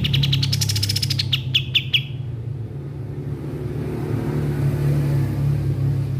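Kapas tembak songbird giving a rapid run of chirping notes, about eight a second and slowing into a few spaced notes, which stops about two seconds in. A steady low rumble like traffic runs underneath.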